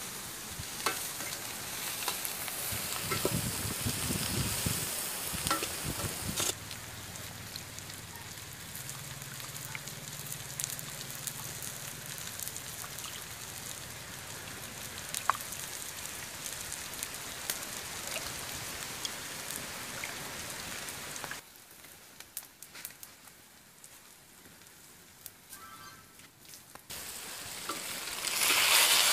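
Hot oil hissing and sizzling in a wok over a wood fire, with quieter stretches between. Near the end the sizzle rises sharply as fresh goat blood is poured onto the frying vegetables in the hot wok.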